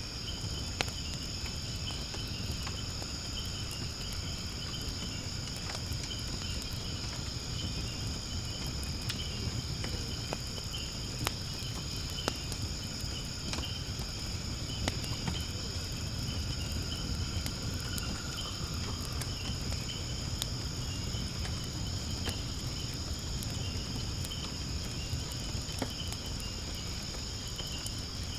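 Wood fire crackling in a fire pit, with scattered sharp pops, over a steady high-pitched chorus of insects.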